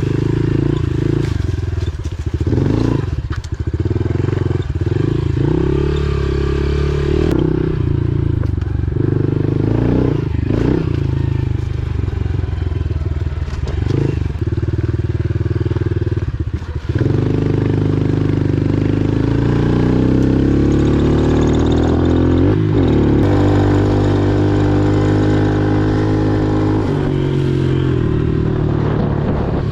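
Pit bike engine running under way, the throttle shut off briefly several times in the first half, then rising steadily in pitch as it accelerates about two-thirds of the way through.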